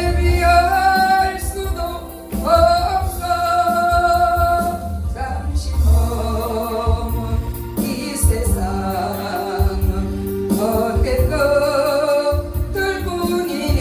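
A gospel praise song sung over instrumental accompaniment with a steady bass and a light beat. The voice holds long notes.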